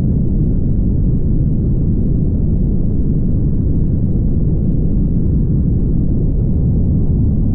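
Steady low rumble of a car at highway speed: tyre and road noise mixed with wind. There is no distinct engine note and no sudden sounds.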